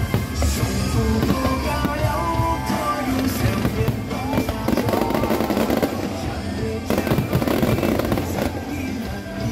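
Fireworks going off in rapid succession, a dense run of bangs and crackles, over loud music played for the show.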